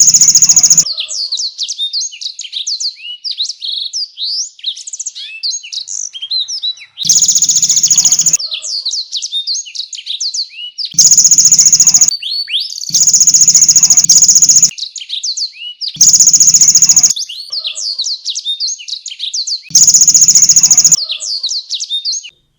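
Domestic canary singing a rapid run of high chirps and sweeping notes, broken about every three to four seconds by a loud, fast, buzzing rattle lasting about a second (six in all). The song stops abruptly near the end.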